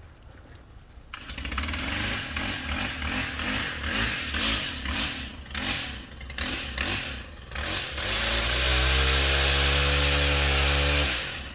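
Gas chainsaw starting about a second in and running unevenly, its pitch rising and falling as the throttle is worked. Near the end it is held at high, steady revs for about three seconds, then cuts off suddenly.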